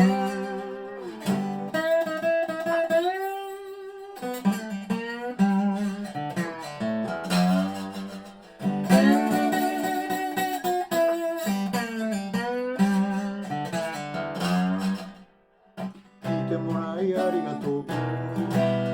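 A 1985 Dobro spider-cone resonator guitar played with a bottleneck slide: strummed chords and notes that glide in pitch. The playing breaks off briefly about three-quarters of the way through, then resumes.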